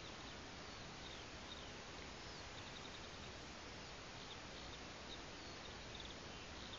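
Faint, scattered short bird chirps over a steady background hiss.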